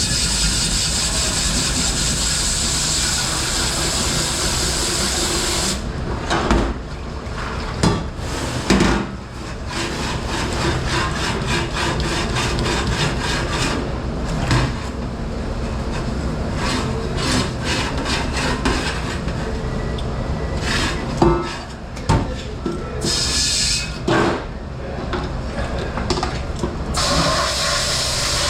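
Dishwashing in a commercial dish room. A steady rushing wash noise, then many knocks and clatters of dishes and racks being handled, and the steady rush starting again near the end.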